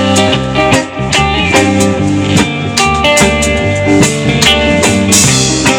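Live band playing an instrumental passage between sung lines: guitar and bass over a drum kit keeping a steady beat.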